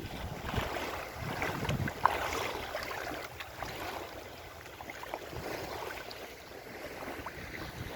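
Wind buffeting the microphone over the wash of sea waves, with a single sharp click about two seconds in.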